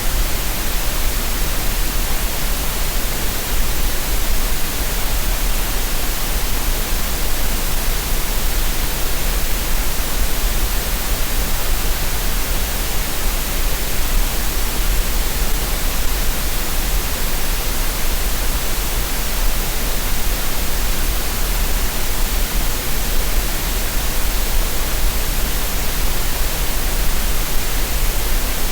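Synthetic green noise for relaxation and tinnitus masking: a constant, unchanging hiss spread over the whole range, with a strong deep rumble underneath.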